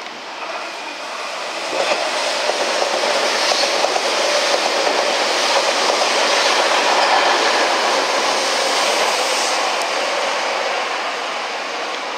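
Tobu Railway Ryomo limited express electric train passing through at speed: the noise of its wheels and cars swells about two seconds in, stays loud as the carriages go by, and eases off near the end.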